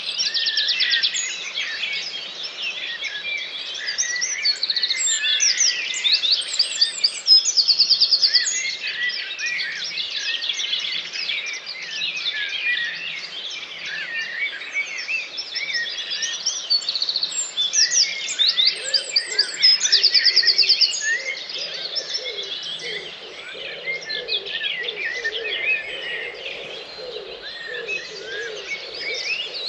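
Dawn chorus: many songbirds singing at once, a dense mix of overlapping chirps, whistles and rapid trills. Lower-pitched notes join about two-thirds of the way through.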